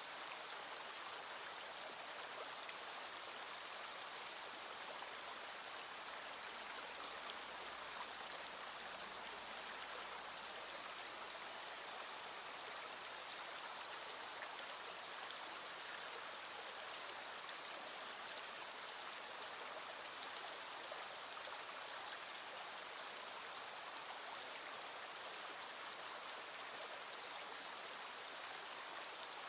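Small stream running steadily, an even, unbroken rush of flowing water.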